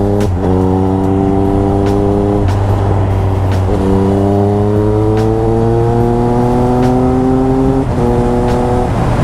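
Triumph Speed Triple RS inline three-cylinder engine through an SC Project titanium exhaust, accelerating up through the gears. The pitch climbs, then drops back at each upshift, about four times, and holds fairly steady near the end.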